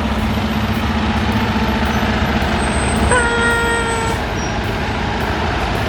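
School bus engine running with a steady low rumble. About three seconds in, a vehicle horn sounds once for about a second.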